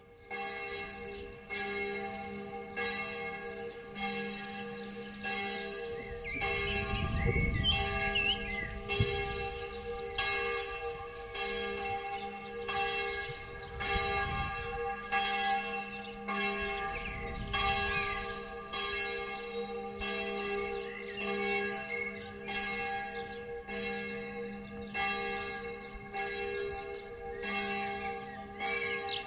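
Church bells ringing in a steady, even rhythm of strokes a little over once a second, with birds chirping briefly in between and a few low gusts of wind rumble on the microphone.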